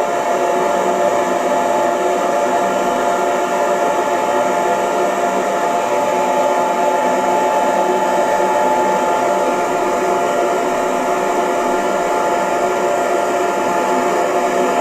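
Hair dryer running steadily, a constant airy rush with a steady whine in it.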